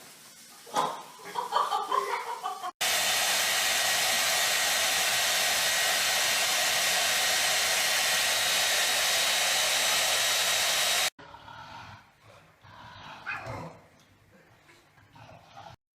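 Loud steady rushing air noise with a faint high whine, like an electric blower running, cutting in abruptly about three seconds in and stopping abruptly about eight seconds later.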